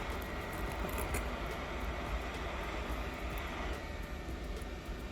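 Steady rushing air from a hot air rework station heating the phone's back glass to soften the adhesive, the hiss thinning a little about two-thirds of the way through.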